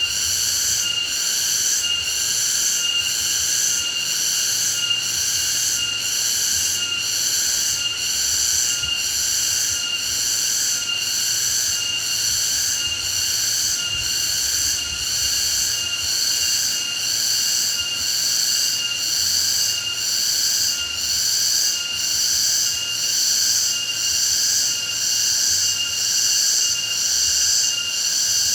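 A chorus of insects chirping in high-pitched tones that pulse in a regular rhythm, without a break.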